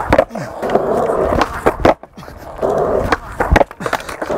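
Skateboard wheels rolling on pavement in two stretches, broken by sharp clacks of the board hitting the ground, as a skater tries a hardflip backside revert (ghetto bird).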